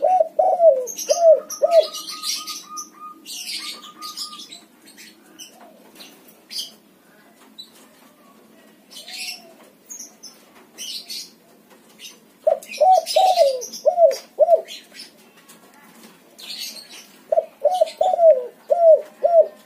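White spotted dove (tekukur) cooing in three phrases, at the start, about 12 seconds in and about 17 seconds in, each a quick run of five or six short falling coos. Small birds chirp between the phrases.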